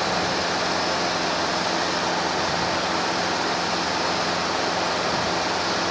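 Steady in-flight cabin noise of a Robinson R22 helicopter: an even rush of engine and rotor with a constant low hum underneath.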